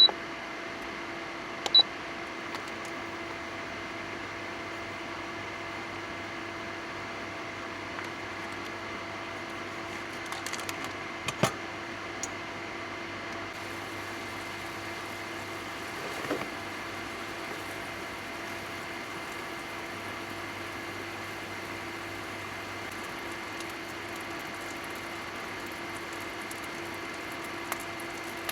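A steady mechanical hum with several fixed pitches, broken by a few sharp clicks and knocks, the loudest near the start, about two seconds in and around eleven seconds in.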